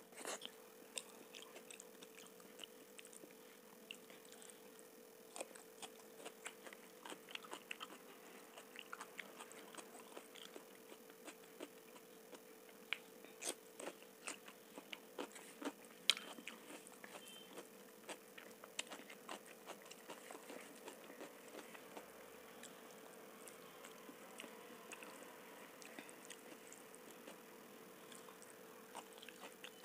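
Close-up mouth sounds of eating soft masala khichdi by hand: chewing and lip smacks with many short sharp clicks scattered irregularly, over a faint steady hum.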